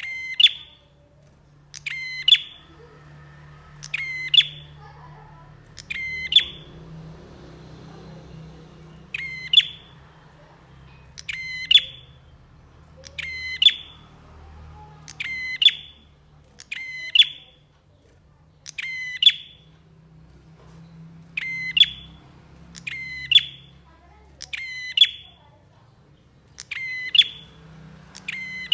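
Prinia (prenjak) calling loudly: short, sharp, rapidly trilled notes repeated over and over, roughly one every one to two seconds.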